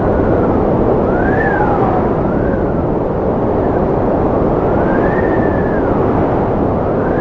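Wind blowing steadily, with a whistling howl that glides up and down in pitch every second or two.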